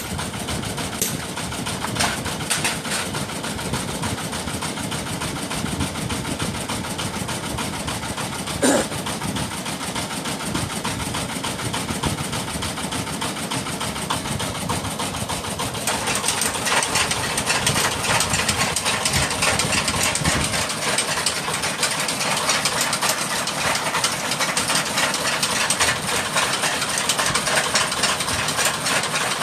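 Motor-driven workshop machinery running steadily with a fast, dense rattle, with a single sharp knock about nine seconds in. About sixteen seconds in the sound turns brighter and harsher and stays that way.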